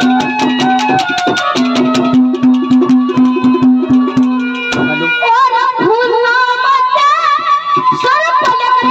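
Ragni folk music: a harmonium holds steady chords over a fast hand-drum rhythm. About five seconds in, a high-pitched male voice comes in singing a wavering, ornamented line over them.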